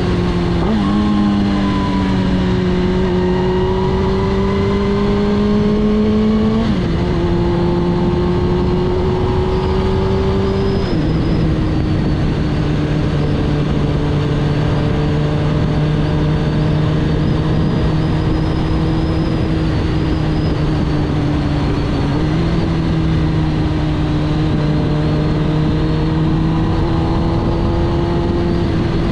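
2006 Suzuki GSX-R1000 K6 inline-four running through a full Akrapovič titanium exhaust at a steady cruising pitch. The engine note drops suddenly twice, about 7 and 11 seconds in, as with upshifts, and rises slightly near the 22-second mark.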